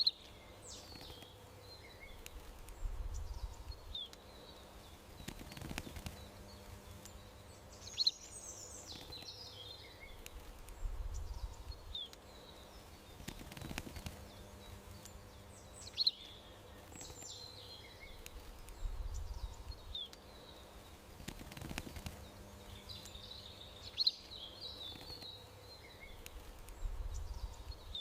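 Garden birds chirping and calling in short high notes over a steady outdoor hiss, with a faint low rumble now and then. The same few seconds of birdsong repeat about every eight seconds, as a looped soundtrack.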